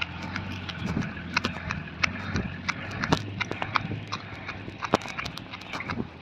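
A heavy vehicle's engine idling with a steady low hum, under irregular sharp clicks and knocks, like metal clinking or gear being handled.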